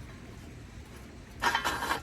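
Metal parts of a heavy YOKA fire pit briefly scraping and rubbing together as it is handled, about a second and a half in.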